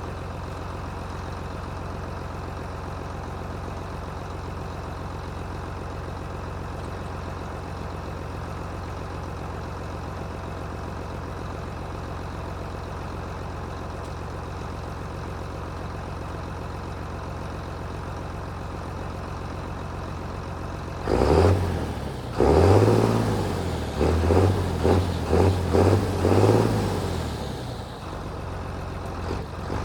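John Deere 8220 tractor's six-cylinder diesel engine idling steadily, then revved up and down several times in quick succession for a few seconds about two-thirds of the way through before settling back to idle.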